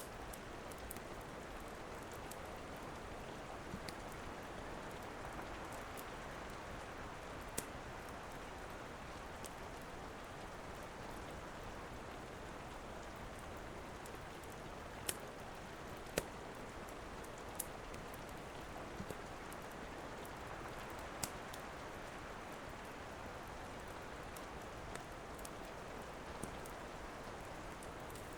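Steady rain, with a wood fire crackling: a dozen or so scattered sharp pops every second or few.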